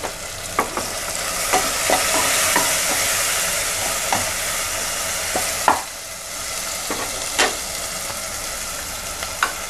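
Onions, tomatoes and green chillies sizzling in hot oil in an aluminium pressure cooker as they are stirred with a spoon. The spoon knocks against the pot now and then, most sharply about halfway through and again a couple of seconds later. The sizzle is loudest in the first half.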